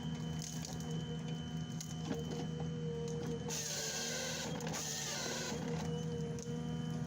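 Heavy forestry machine running steadily with an even mechanical drone, and a burst of hiss in the middle lasting about two seconds.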